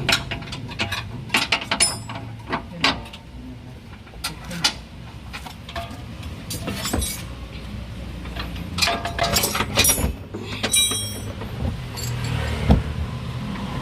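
Metal clinks and knocks of hand tools on car suspension parts, irregular and sometimes ringing briefly, over a steady low hum.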